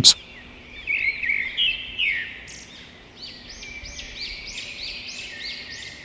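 Birds chirping: a run of short, varied chirps, then a string of repeated rising-and-falling whistled notes, about two or three a second, over a faint steady hum.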